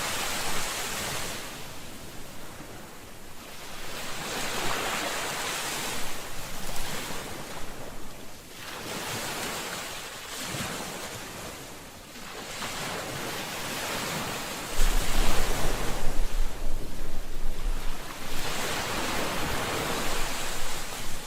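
Ocean waves breaking and washing ashore, the surf swelling and falling away every few seconds. About two-thirds of the way through, a low rumble joins in underneath.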